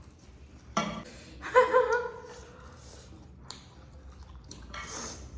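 A person burping while eating, a short pitched belch about a second and a half in, then a breathy exhale near the end.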